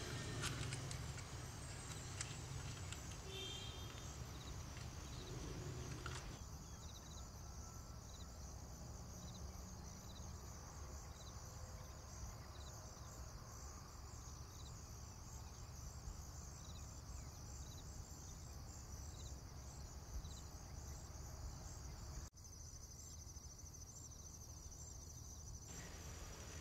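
Faint insect chirping, a steady fast pulsing trill, over a low steady hum.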